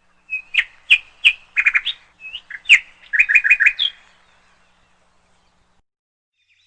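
Small colourful birds chirping: a quick run of short, sharp chirps and rapid trills lasting about four seconds.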